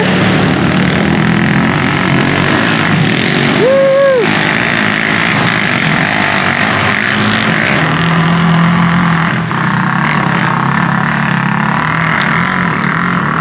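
Motor vehicle engines running loudly and steadily as the vehicles pass, with one short rising-and-falling tone about four seconds in.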